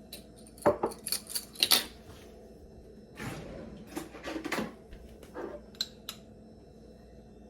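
Metal spoon clicking against glass jars and scraping as chopped garlic is spooned in: a quick run of sharp clicks, then softer scrapes and a couple more clicks.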